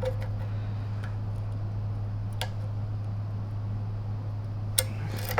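A steady low hum with a few sharp, light clicks: one about halfway through and two near the end, from small parts on the vacuum motor's carbon-brush holder being handled with a tool.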